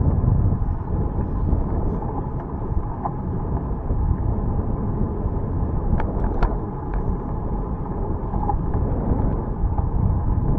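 Steady low wind rumble on the microphone while cycling, mixed with road noise, with a few brief clicks about six to seven seconds in.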